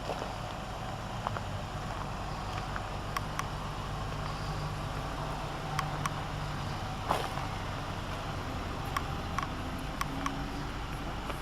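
2007 Hummer H3's 3.7-litre inline-five engine idling with a steady low hum, with a few short sharp clicks scattered over it, the loudest about seven seconds in.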